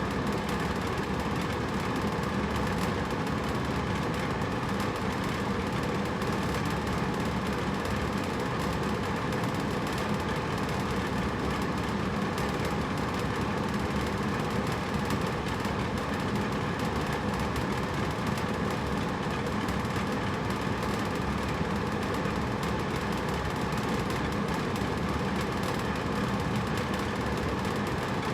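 Hotel room air conditioner running with a steady, unchanging hum and airy rush.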